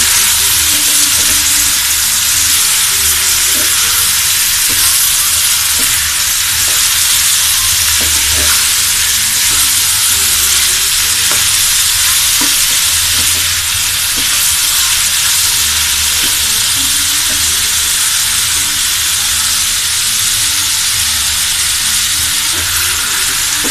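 Cubed sweet pumpkin, onion and green chillies sizzling steadily in hot oil in a stainless-steel frying pan while being stirred with a wooden spatula, the vegetables being sautéed with salt and turmeric.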